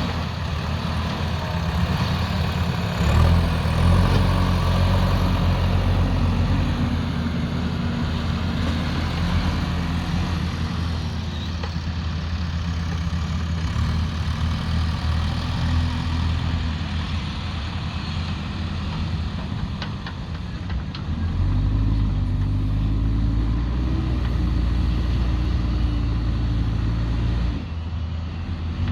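Heavy diesel engine of earthmoving machinery running throughout. Its revs rise about three seconds in and again about two-thirds of the way through, then drop back shortly before the end.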